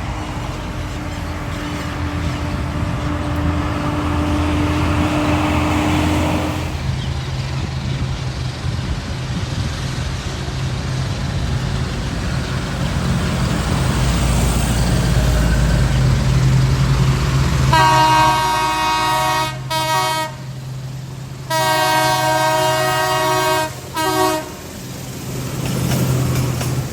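Diesel train's engine rumbling as it approaches, then its horn sounds four blasts, long, short, long, short, over the running engine.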